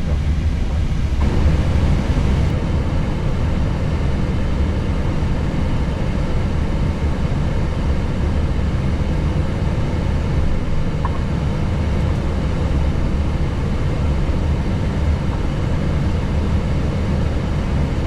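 Steady low rumble and hum inside an Airbus A321neo cockpit while the aircraft taxis, from the engines at idle and the cockpit ventilation.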